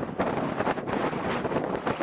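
Strong gusting wind buffeting the microphone: an uneven rushing noise with repeated short blasts.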